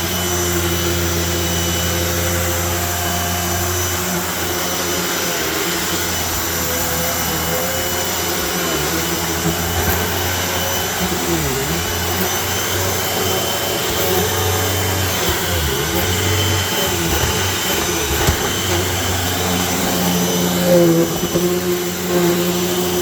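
Vacuum cleaner running steadily over thick shag carpet with a constant motor hum and whine; its pitch dips briefly a couple of times midway.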